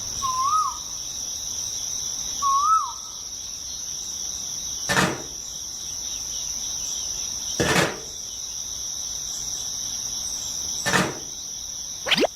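Steady high insect-like chirring, with two short warbling bird chirps in the first few seconds, three separate dull knocks spread through, and a quick rising whoosh near the end.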